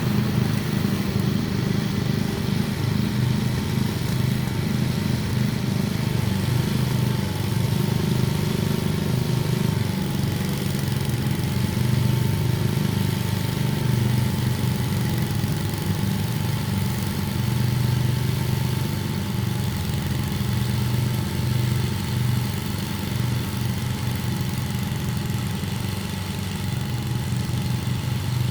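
An engine running steadily at an even speed, loud and unchanging, with a fine even pulse in its low note.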